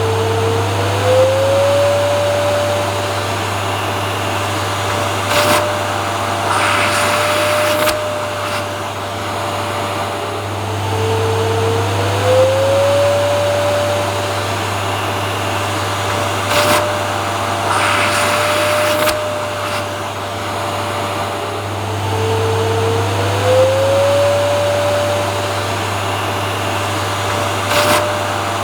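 Vacuum cleaner running continuously: a steady motor hum with a whine that slides up in pitch and then holds. The same pattern repeats about every eleven seconds, each time with a short burst of hiss.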